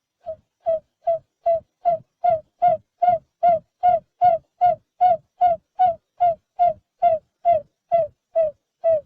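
Barred buttonquail calling: a long run of low, even hooting notes, about two and a half a second, swelling in loudness over the first couple of seconds and then holding steady.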